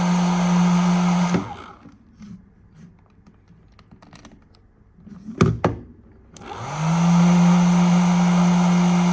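Hair dryer blowing with a steady motor hum; it is switched off a little over a second in. Two sharp clicks come about five seconds in, then the motor starts again, rising in pitch as it spins up and settling back into its steady hum.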